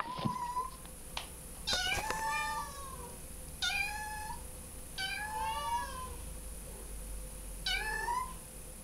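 A kitten meowing about five times, each meow rising and then falling in pitch, the first one short.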